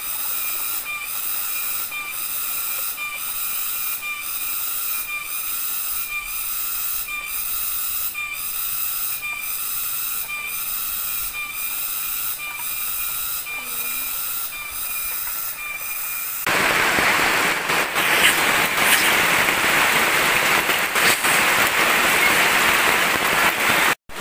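A steady, rhythmic pulsing drone, about one and a half pulses a second, gives way abruptly about two-thirds of the way in to the louder, even hiss of heavy rain falling on the forest.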